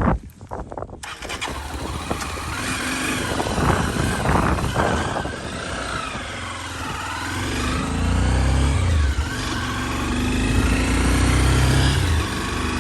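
Motorcycle engine running, its pitch rising and falling, with a strong low hum from about eight seconds in.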